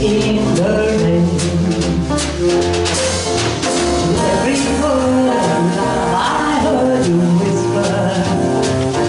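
A small jazz band playing a swing tune live: baritone saxophone, piano, double bass and drums, with a sung melody line.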